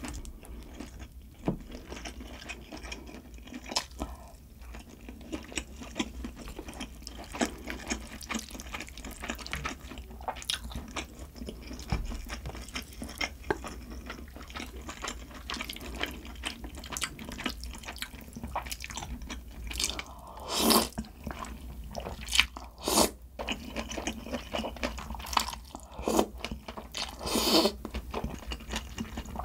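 Close-miked eating sounds: a person chewing food, with wet mouth clicks and crunches throughout. A few louder noisy bites or slurps come about two-thirds of the way in and again near the end.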